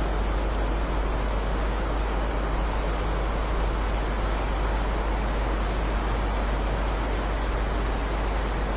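Heavy rain falling in a steady, even hiss, with a deep low rumble underneath.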